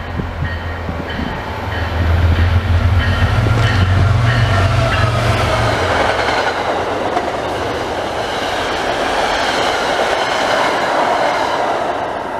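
MBTA commuter rail train of bilevel coaches passing close at speed: a low rumble builds as it approaches, then wheel-on-rail clatter runs as the cars go by and drops off near the end.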